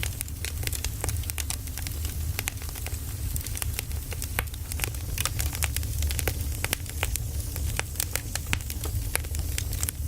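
Burning firewood crackling: many sharp, irregular pops and snaps over a low steady rumble of the fire.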